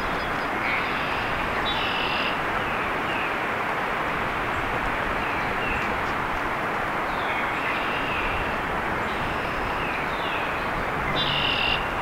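Bird chirps: short falling notes repeat throughout over a steady rushing background noise, with a louder call about two seconds in and again near the end.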